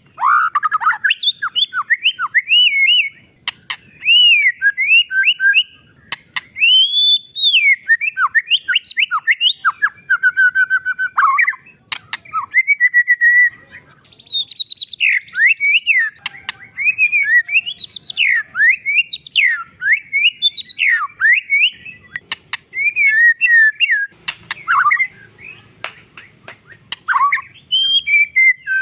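White-rumped shama (murai batu) singing a long, varied song of quick whistles, up-and-down slurs and short trills, with brief pauses between phrases.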